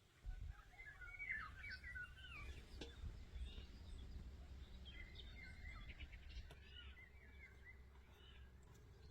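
Small birds chirping in short, quick phrases over a low steady rumble.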